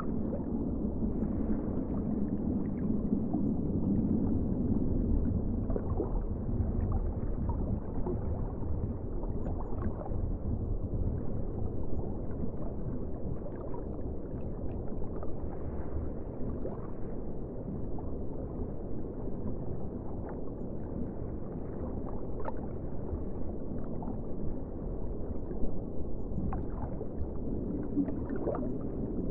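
Ocean water ambience: a steady, muffled wash of water with a few faint gurgles and ticks, swelling a few seconds in and again near the end.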